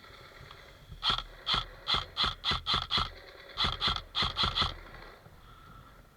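Airsoft rifle fired in rapid single shots: about a dozen sharp cracks in two strings, seven then a short pause and five more, at roughly three to four a second.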